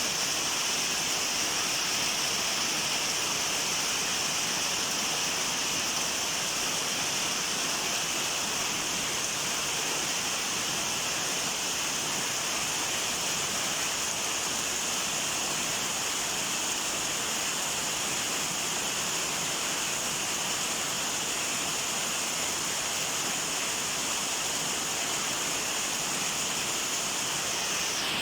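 Heavy rain falling steadily, an even, unbroken rush with no let-up.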